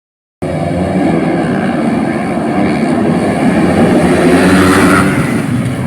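Motocross dirt bike engines running hard at high revs, starting about half a second in and getting louder and higher around four to five seconds as the bikes pass.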